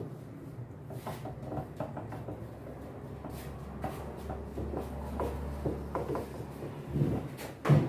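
Small clicks and scrapes of a hand tool tightening the metal clamp ring that holds the rubber door boot onto a washing machine tub, with a louder knock near the end.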